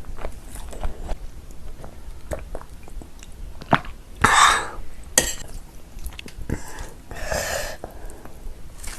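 Close-miked eating sounds, small wet mouth clicks and chewing, broken by a loud cough about four seconds in and another cough or throat-clearing sound a few seconds later.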